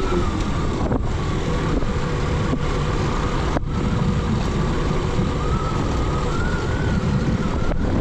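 Motorcycle running steadily at riding speed, engine sound mixed with wind rushing over the microphone.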